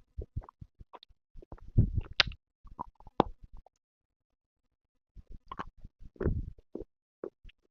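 Close-miked crunching and chewing of something brittle: clusters of sharp crackles over dull low thuds from the mouth, with a pause of about a second and a half midway.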